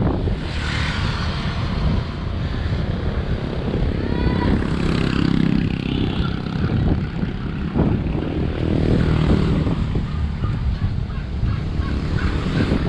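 Wind buffeting the action camera's microphone while cycling, a continuous low rumble mixed with road noise. A brief chirping tone comes about four seconds in.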